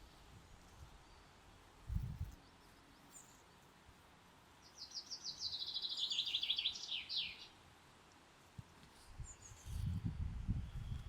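A songbird sings one quick phrase of rapid short notes that fall in pitch over about three seconds. A brief low rumble comes about two seconds in, and another starts near the end.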